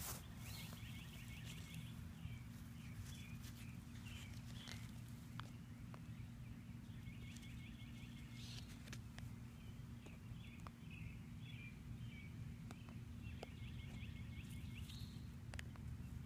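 A songbird singing several phrases of rapid, trilled high notes, over a steady low hum.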